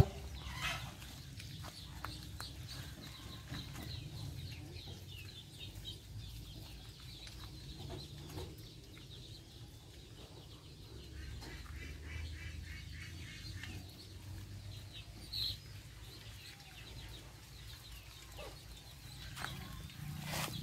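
Faint, scattered short high-pitched animal calls with a few small knocks over a low steady rumble.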